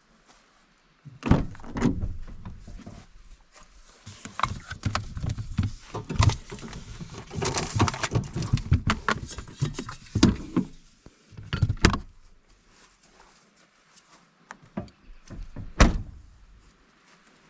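A series of irregular thumps and knocks with rustling and handling noise in between, the sharpest knocks about a second in, around twelve seconds and near the end.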